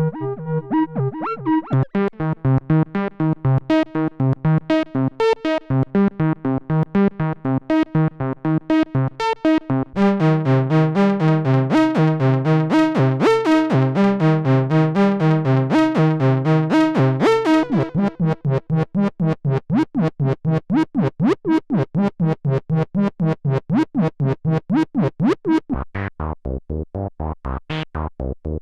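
Roland SE-02 analog monosynth playing a fast, repeating sequenced pattern of about four notes a second. The preset changes about ten seconds in, again near eighteen seconds to a sweeping filter sound, and once more near the end to a deeper, punchier tone.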